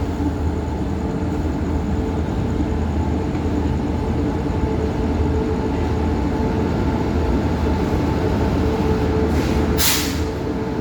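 Passenger express train arriving at a station: a steady low rumble with a constant hum from the locomotive and coaches, and a short hiss about nine seconds in.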